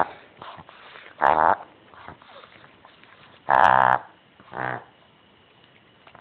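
Three croaking, frog-like vocal calls: a short one just over a second in, a longer, louder one about three and a half seconds in, and a brief one right after it.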